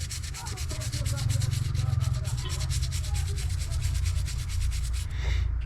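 Brush scrubbing a water-damaged phone circuit board in quick, even back-and-forth strokes, pausing briefly near the end, over a steady low hum.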